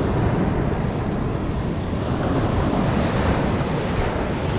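Rough ocean surf washing on the beach, with wind buffeting the microphone.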